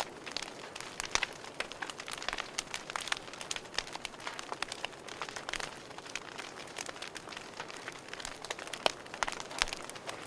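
Wood fire burning in a fireplace, crackling with many irregular sharp pops and snaps over a soft hiss.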